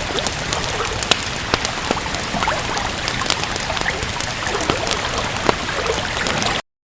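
Steady rain with a wood fire crackling over it in frequent sharp pops. The sound cuts out completely near the end.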